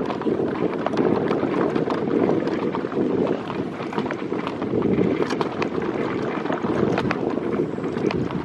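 Steady wind noise rushing over the microphone during a ride in an open vehicle over grass, with scattered light clicks and rattles.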